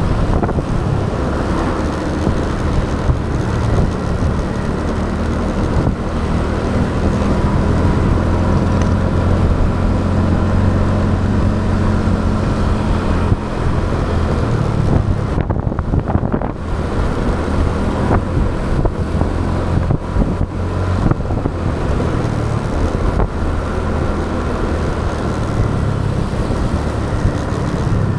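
Motorcycle engine running steadily under way, with wind rushing over the action camera's microphone and road noise mixed in.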